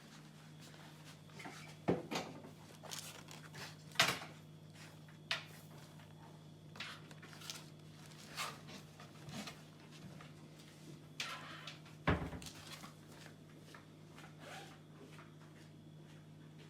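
Siberian husky puppy scratching and digging at the inside of a cardboard box, with irregular scrabbling and a few sharper knocks, the loudest about four and about twelve seconds in.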